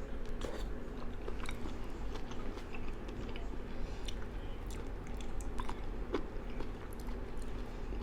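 Close-up mouth sounds of a person chewing and eating gumbo, with irregular wet smacks and small clicks over a steady low background hum.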